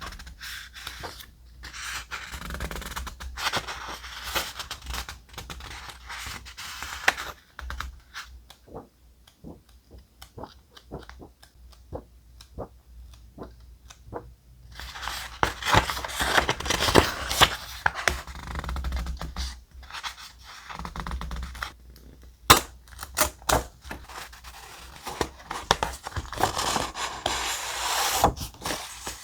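Thick paper being handled close up for journaling: rustling and scraping, with many small clicks and taps. It quietens to scattered light clicks for a few seconds in the first half, then rustles more loudly again, with one sharp tap past the middle.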